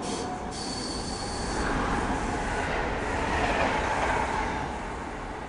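Stockholm commuter rail train (X10 electric unit) running on the rails, with a thin high whine in the first second and a half. The rail noise grows louder to a peak about three and a half seconds in, then fades as the train moves away.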